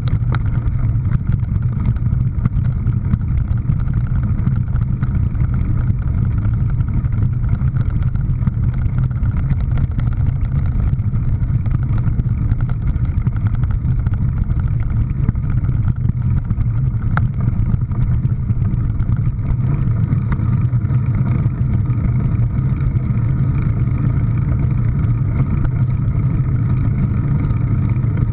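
A motor vehicle's engine running at a steady speed: a constant low drone with no revving, with one sharp click about 17 seconds in.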